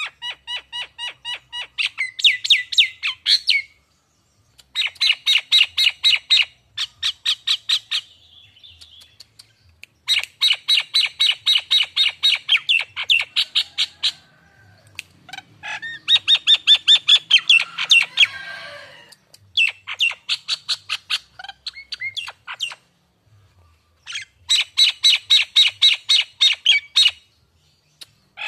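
Nias hill myna calling in loud bouts of rapid, repeated whistled notes, about five a second. Each bout lasts one to four seconds, with short pauses between. Partway through comes a harsher, rasping stretch.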